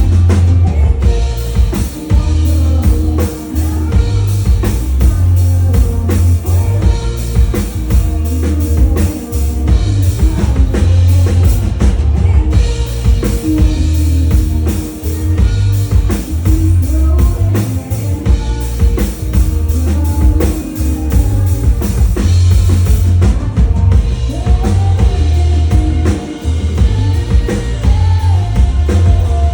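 A band playing a country-rock song, with a drum kit driving a heavy kick-drum beat, bass and guitar, and a singing voice.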